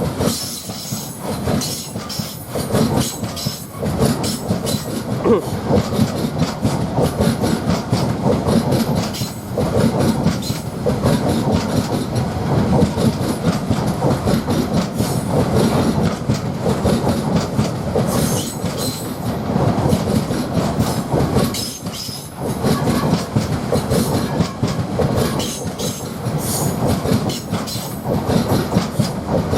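Wagons of a long freight train rolling past at speed, with a continuous clickety-clack of wheels over rail joints and a low rumble. The sound dips briefly twice, about a third of the way in and again past two thirds, then picks back up.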